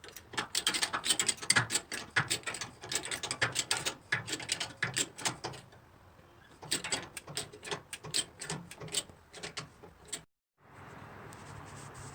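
Rapid, irregular mechanical clicking in two long runs, the second after a pause of about a second. It is followed by a brief dead cut and then a steady hiss.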